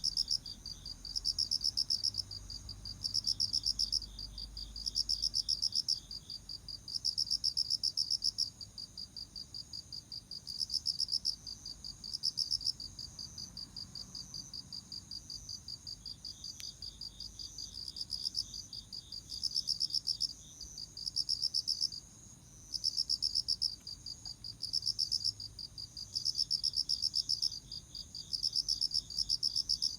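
Autumn crickets chirping: rapid, high-pitched pulsed chirps repeating in louder bursts of a second or two, with quieter pulsing between and a second, fainter insect chirping alongside at times.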